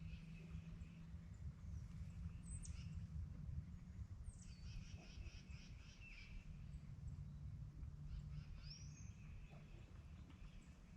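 Small songbirds singing: several high, quick trilled songs, some opening with a sharp downward sweep, a few seconds apart, over a low steady rumble.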